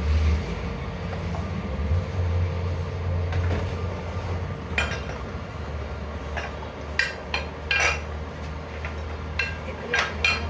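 Light metallic clinks of steel tools and parts knocking against metal, about eight scattered strikes in the second half, some with a short ring, over a steady low machine hum.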